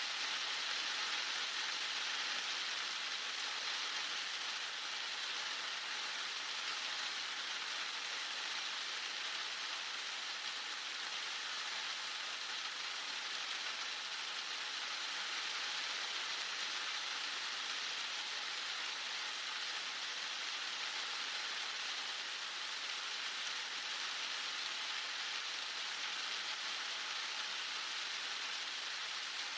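Heavy rain falling steadily, an even hiss of rain on surfaces with no breaks or gusts.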